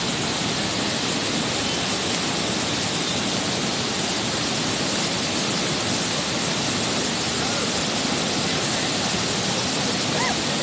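Floodwater of a swollen, overflowing river rushing past in a steady, dense wash of noise.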